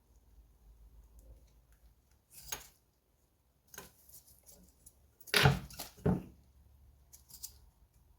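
Hand tools and small metal engine parts clinking and knocking as they are handled, with scattered light clicks and two louder knocks a little past the middle.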